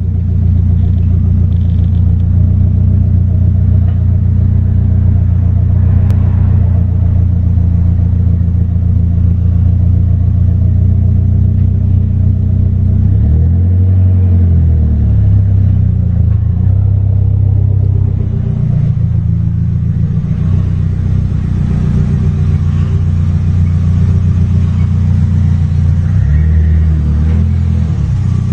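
Nissan Silvia S15's SR20 four-cylinder engine idling with a steady, low exhaust rumble. The pitch dips and rises briefly about halfway through and again near the end.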